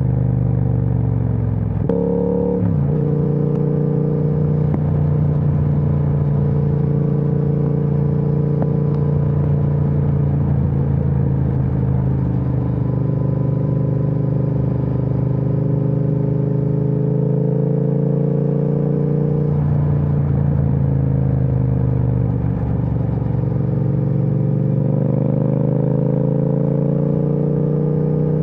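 Triumph Speed Twin 1200's parallel-twin engine through a Vance & Hines aftermarket exhaust, under way: steady cruising, with a quick gear change about two seconds in and revs climbing gradually over the last few seconds.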